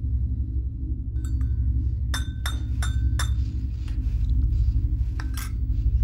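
A metal teaspoon clinking against the inside of a china teacup as tea is stirred: a quick run of bright ringing clinks, then two more about five seconds in.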